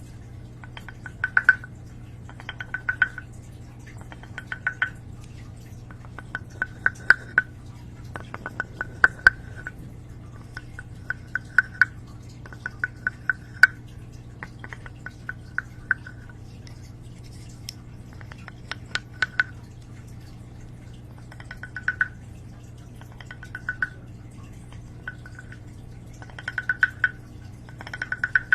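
Close-miked ASMR tapping: short bursts of rapid, crisp clicks on a hard object, a burst every second or two, each with a slight ringing tone.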